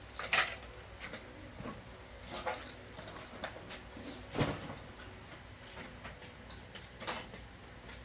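Scattered clicks and knocks of tools and parts being handled during car repair work, with louder knocks about half a second, four and a half, and seven seconds in.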